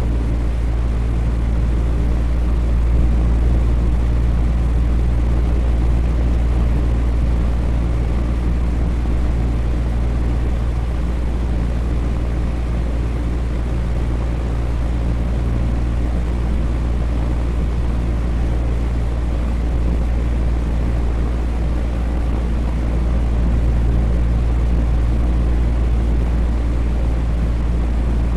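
Electric fan running steadily: a continuous whir with a deep, even low hum, unchanging throughout.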